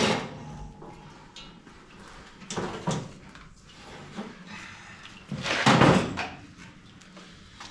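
Clunks and scrapes of objects being handled: one short cluster about three seconds in and a louder one around six seconds.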